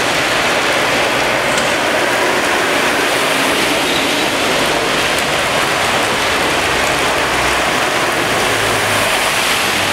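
Heavy rain falling on a flooded street, a steady dense hiss. Near the end a car drives through the floodwater, adding a low hum under the rain.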